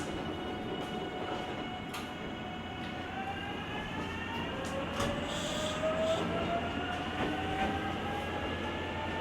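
JR Kyushu 883 series limited express motor car running. Its GTO-thyristor VVVF inverter and traction motors give a set of whining tones that hold steady at first, then rise steadily from about three seconds in as the train accelerates, over the steady rumble of wheels on rail with a few sharp clicks.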